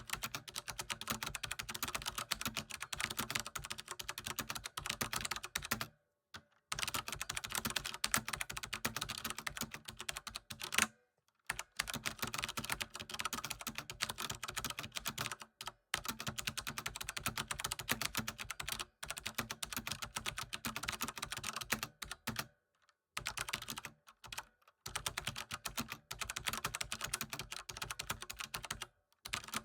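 Computer keyboard typing: fast, continuous runs of key clicks in bursts of a few seconds, broken by brief pauses.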